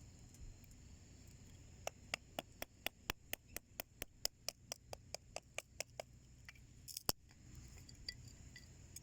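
A run of sharp, evenly spaced clicks, about four a second for some four seconds, then a single louder click, over a steady high-pitched drone.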